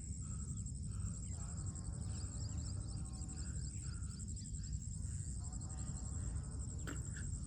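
Insects trilling steadily in a high, fast-pulsing whine, with birds chirping and calling now and then, over a constant low rumble.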